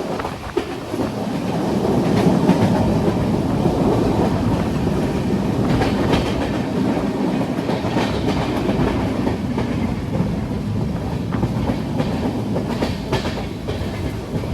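Freight train behind an Indian Railways WAG-12 electric locomotive rolling past: a steady rumble of steel wheels on the rails that builds over the first couple of seconds, with scattered clicks as the wheels pass over rail joints.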